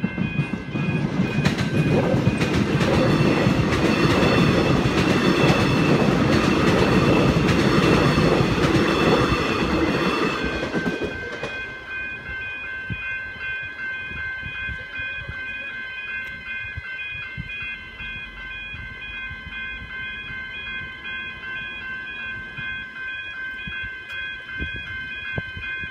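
An electric suburban train passes a level crossing: a loud rush of wheel and rail noise from about half a second in, dying away about 11 s in. The crossing's warning bells keep ringing steadily throughout.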